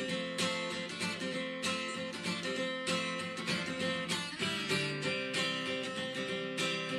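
Background music: an acoustic guitar strumming steady chords.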